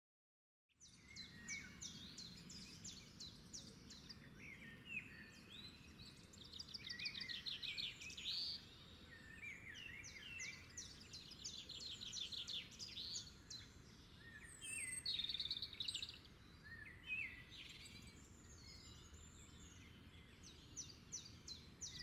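Several songbirds chirping and singing quick trills over a faint, steady low rumble of outdoor background noise. It begins after a moment of silence at the start.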